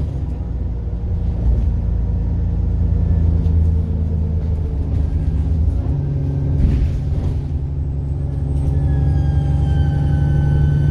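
Bus diesel engine running with a steady low drone. About seven seconds in comes a short hiss, and then a high turbocharger whine rises in pitch over the last couple of seconds.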